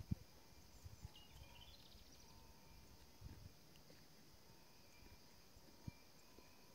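Near silence of quiet countryside, with a faint short series of rising bird notes about a second in and a few soft low thumps.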